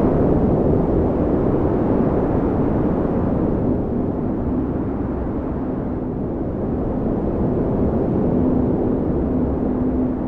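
Strong wind blowing as a steady low rush. From about halfway through, a faint low moaning tone rides on it.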